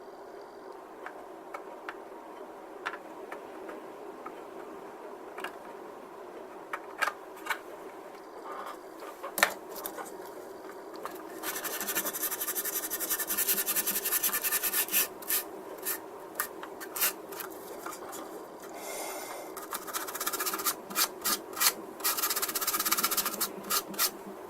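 Hand-sanding a glued seam on the plastic nose of a 1/32-scale model aircraft kit, smoothing the join. Light scattered clicks and taps give way, about halfway through, to a run of quick back-and-forth scraping strokes. A second run comes near the end.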